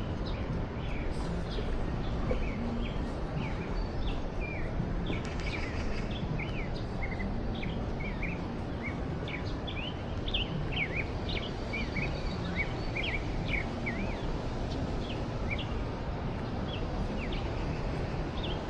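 Small birds chirping in many quick short calls over a steady low background rumble.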